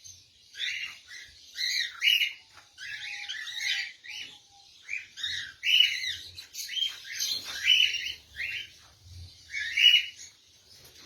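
Caged lovebirds chirping and squawking in short, harsh calls, one after another in quick clusters with brief gaps.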